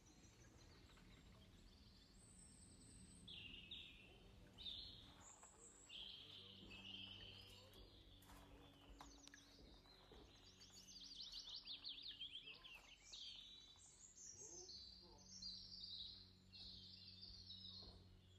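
Faint birdsong: small birds chirping and giving quick trills on and off.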